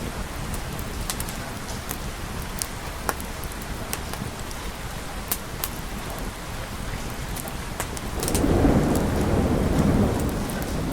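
Steady rain with scattered sharp clicks. About eight seconds in, a rumble of thunder rolls in and keeps going.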